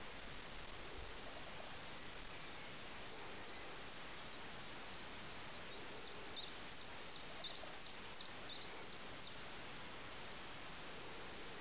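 A small bird singing some distance off: a run of about ten short, high, down-slurred notes partway through, with a few fainter notes earlier, over a steady outdoor hiss.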